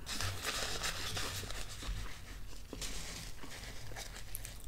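A person chewing a bite of thin-crust deluxe pizza close to the microphone, wet and crackly, loudest in the first second and a half and again around three seconds in. Near the end, faint clicks as a fork and knife cut pizza on a paper plate.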